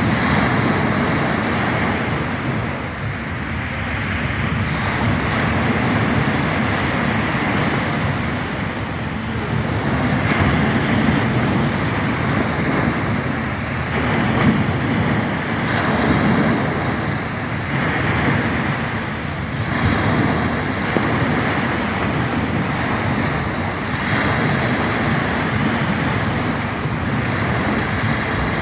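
Sea surf washing onto the shore, swelling and easing every few seconds, with some wind noise on the microphone.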